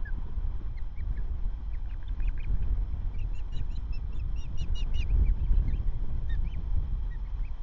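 Ospreys calling: a run of short, sharp, high chirps that comes thickest in the middle, over a constant low rumble.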